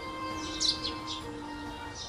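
Songbirds chirping: a few quick falling chirps about half a second to a second in, over quiet background music with soft sustained notes.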